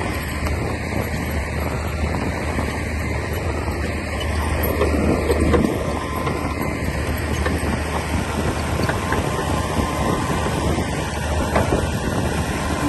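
Bulldozer's diesel engine running steadily under work, with scattered clanks from the machine, louder for a moment about five seconds in.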